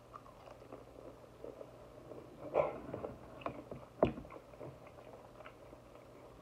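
A person chewing a bite of fried shrimp dipped in tartar sauce: soft, scattered mouth noises, with a louder smack about two and a half seconds in and a sharp click about four seconds in.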